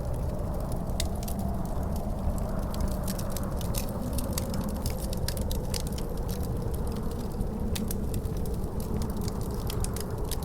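Wood fire crackling in a fireplace, with many sharp, irregular pops, over a steady low rumble of wind that howls faintly, rising and falling.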